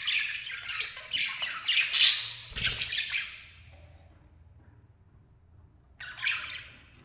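Lovebirds chattering with harsh, rapid squawks and chirps, loudest about two seconds in, then a pause of about two seconds before another short burst of calls near the end.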